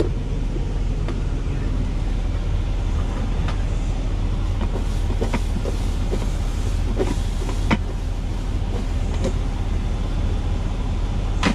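Steady low rumble of a truck engine idling, heard inside the cab, with a few light clicks and knocks scattered through it.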